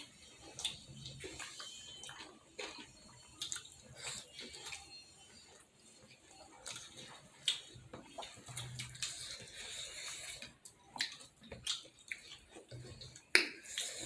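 Close-miked wet chewing, lip smacks and mouth clicks of someone eating momo dumplings, coming irregularly with one sharper click near the end.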